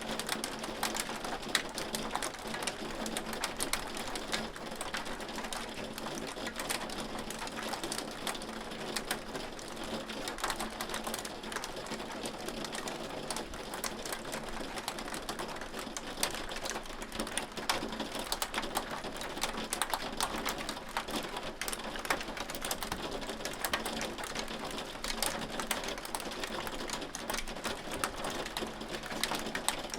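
Hailstones pelting a hard surface: a dense, continuous patter of sharp ticks and clicks that holds steady throughout.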